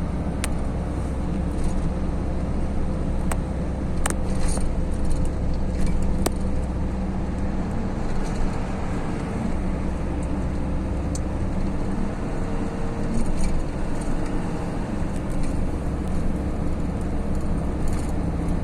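Steady engine drone and road noise of a moving vehicle, with a few small sharp clicks or rattles scattered through it.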